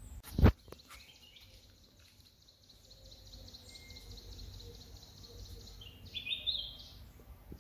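A sharp thump with a smaller click just after, then a long, high, rapid pulsing trill and a few high bird chirps near the end.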